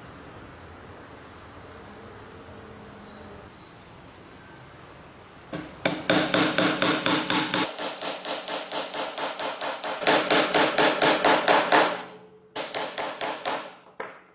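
A rapid, even series of sharp knocks, about six a second, with a ringing pitch under them. They start about five seconds in, stop briefly near the end, then resume for a moment.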